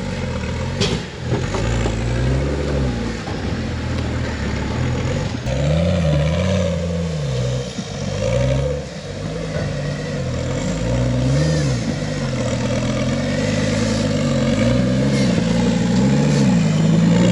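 Off-road truck engine revving up and down in repeated throttle bursts while rock crawling, its pitch rising and falling every second or two. A sharp knock about a second in.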